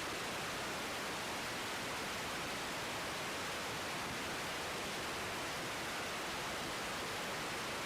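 Steady, even hiss at a constant level, with no change in pitch or loudness.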